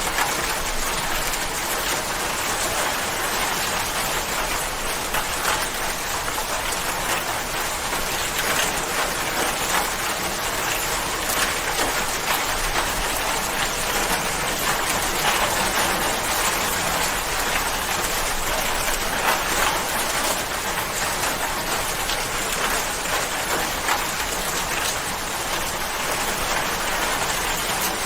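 Steady rain falling, with many fine drops tapping on surfaces in a dense, even patter.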